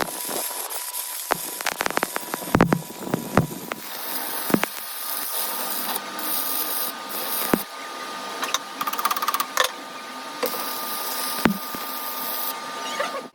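Metalworking power tool running with a steady hiss, while metal parts give repeated sharp clicks and knocks, several in quick succession a couple of seconds in.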